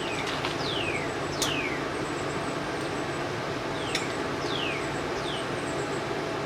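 Bird calls, a series of short whistled notes, each gliding down in pitch, over a steady background hiss. Two sharp clicks come about a second and a half in and again about four seconds in.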